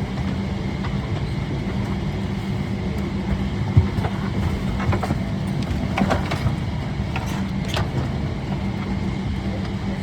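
Steady airliner cabin hum from the ventilation, with a low steady tone beneath it. Scattered light clicks and knocks come from passengers settling during boarding, the sharpest about four seconds in.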